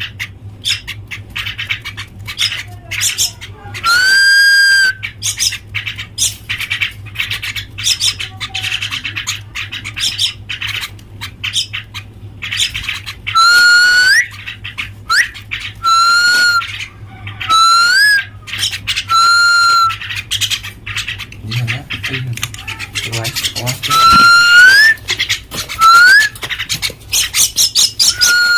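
Common mynas calling. About eight loud, clear whistled calls, several ending in an upward flick, come among rapid clicking chatter, over a steady low electrical hum.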